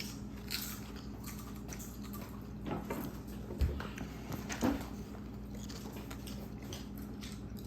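Scattered crunches and crinkles of people eating potato chips, with one low thump about three and a half seconds in.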